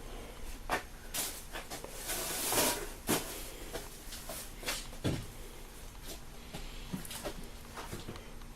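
Handling noise: scattered light clicks and knocks, with a short rustle about two seconds in.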